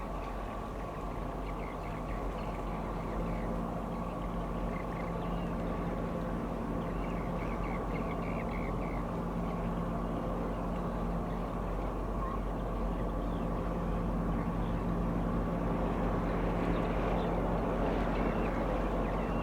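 Low, steady drone of a large ship's engine passing close by, growing slightly louder toward the end, with birds chirping over it.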